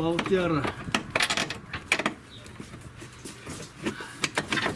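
Metal clinks and knocks as a large bolt is worked out of a car's front lower control arm mount, in a few quick clusters.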